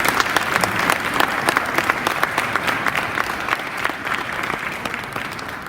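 Audience applauding, many hands clapping steadily, then slowly dying away near the end.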